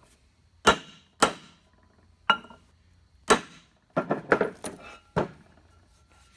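Sharp metallic taps and clinks, about eight in all at irregular spacing, each ringing briefly: steel tools and parts striking during the fitting of a pilot bushing into a flywheel.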